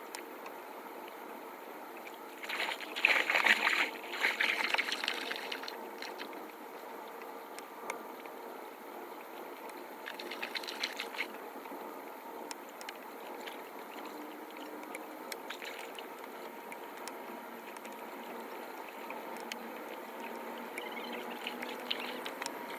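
Floodwater running and trickling steadily into a cleared street drain. It grows louder with a bout of splashing and clatter about three seconds in, and again briefly around ten seconds.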